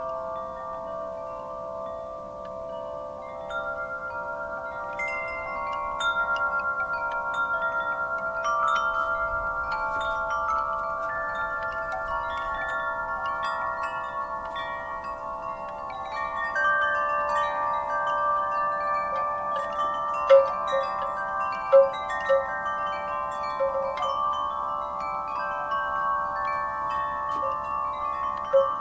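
Wind chimes ringing in the breeze: many metal tones struck at random and left to ring, overlapping and slowly dying away. A few strikes stand out louder a little past the middle.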